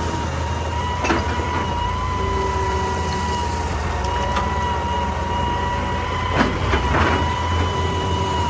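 Excavator engine running steadily with a steady high whine over it, and a few sharp knocks of rock or the bucket striking stone, the loudest two close together near the end.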